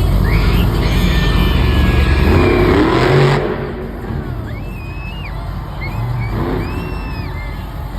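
Monster truck engine running loud and revving hard, the sound dropping away sharply about three and a half seconds in. The rest is quieter, with a few high rising-and-falling squeals.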